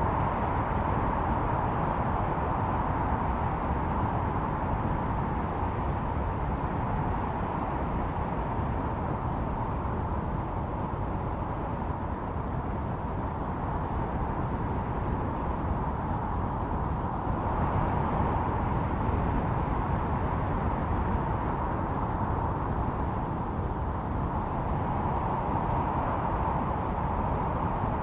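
Snowstorm wind blowing steadily, a howling hiss that swells and eases over several seconds, strongest about halfway through and again near the end.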